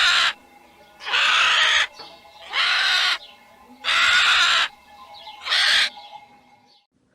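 A bird giving a series of loud, harsh calls, each under a second long, repeated about every second and a half, five in all before falling quiet near the end.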